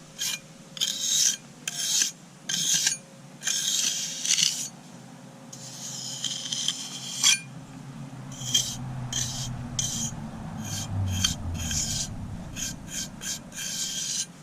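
Hand tool drawn repeatedly over freshly laid cement on concrete steps, making a series of rasping scrapes. The strokes are longer at first and become short, quick strokes in the second half.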